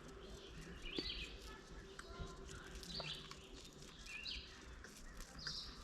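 A bird calling repeatedly outdoors: a short, high call about four times, with a few light clicks in between.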